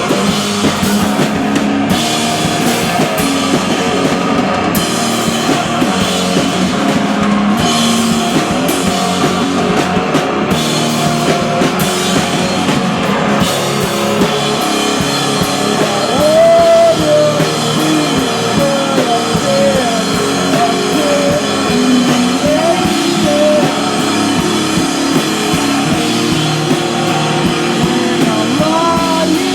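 Live rock band playing a song: drum kit and guitars, with singing in places.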